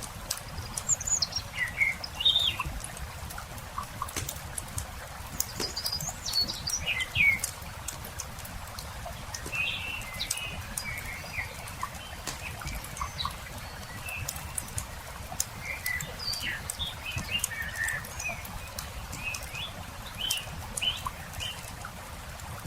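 Small songbirds chirping and twittering in short, scattered calls, over the steady crackle and pop of a wood campfire.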